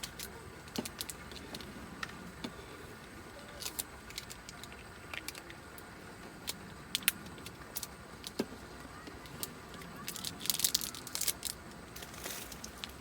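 Light metallic clinks and clicks of camp cooking gear being handled while a hot-sandwich breakfast is prepared. They are scattered through, with a busier burst of clatter about ten seconds in.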